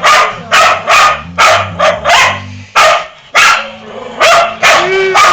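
A dog barking over and over, about two barks a second, with a short pause about three seconds in. Near the end it gives a high whine.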